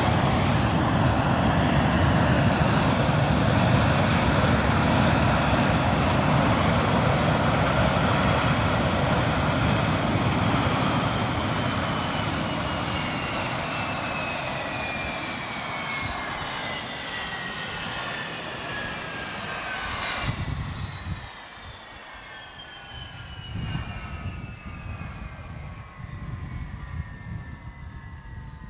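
Rolls-Royce Avon turbojet of an English Electric Lightning running down on a ground test: the steady jet roar eases off about twelve seconds in, its whine falls steadily in pitch, and the deep rumble drops out suddenly about twenty seconds in, leaving the whine winding down as the engine spools down after shutdown.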